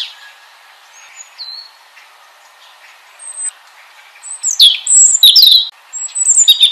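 European robin singing: a few thin, high notes at first, then from about four seconds in a loud run of quick warbling phrases that slide up and down in pitch.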